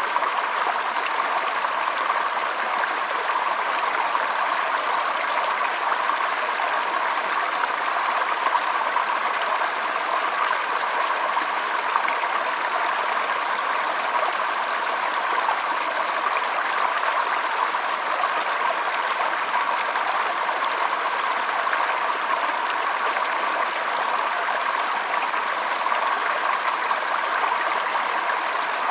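Shallow stream flowing and trickling steadily, an even rush of water.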